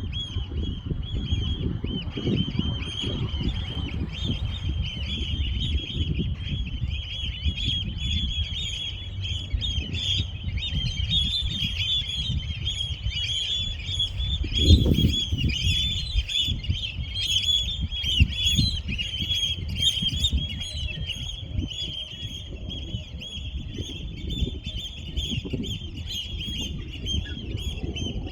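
A chorus of many birds chirping continuously, dense and unbroken, over a low rumble that swells briefly about halfway through.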